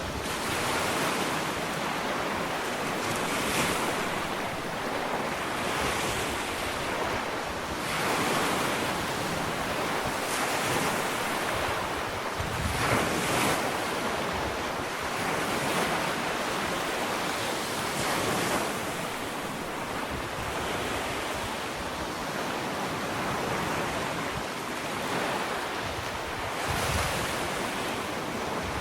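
Ocean waves breaking and washing up a sandy beach: a continuous surf hiss that swells and eases every few seconds as each wave comes in.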